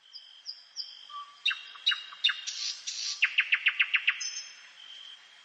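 Songbirds singing in a forest dawn chorus. A thin, steady high whistle runs underneath while one bird sings a few sharp descending notes, then a short buzzy phrase, then a fast run of about nine notes a second that stops about four seconds in.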